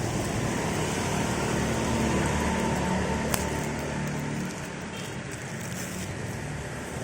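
Steady hiss of rain with a vehicle engine running low underneath; the engine hum eases about four and a half seconds in. A single sharp click just past the middle.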